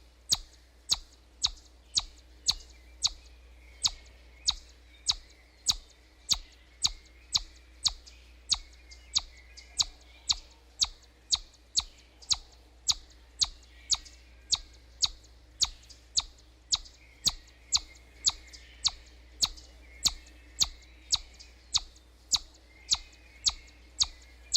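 An animal calling with short, sharp chirps, repeated very regularly about twice a second, with softer chirping in the background.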